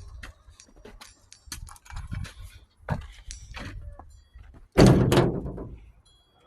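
Scattered light knocks and clicks, then one loud slam about five seconds in that rings on briefly.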